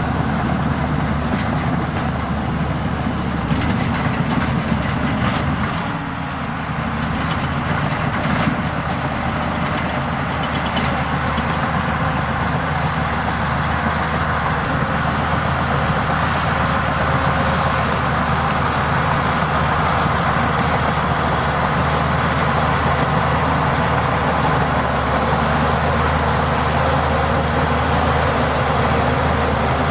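Diesel engine of heavy earthmoving machinery running steadily under work, with a few sharp metallic knocks in the first third.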